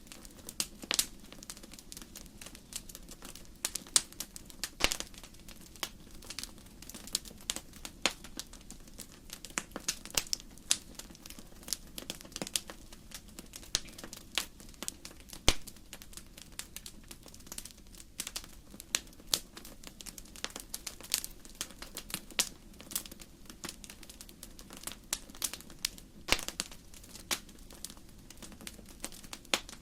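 Wood fire burning in a fireplace, its logs crackling with irregular sharp pops and snaps, several a second, over a low steady rush.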